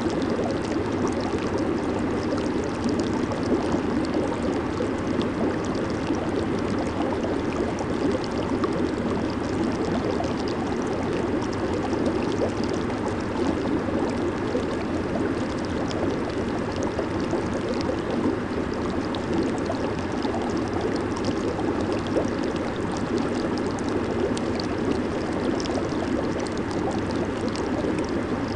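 Jacuzzi running with its jets on: a steady rush of bubbling, churning water.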